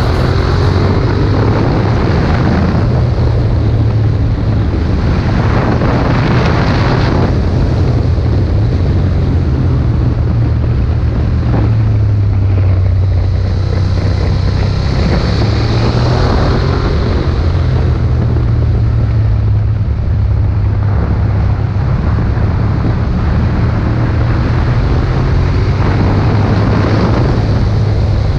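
Ducati Monster 1200's Testastretta V-twin engine running steadily on the move, with wind rushing over the microphone.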